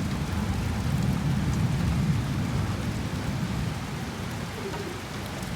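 Thunder rumbling over steady rain. The low rumble eases off about three and a half seconds in while the rain hiss carries on.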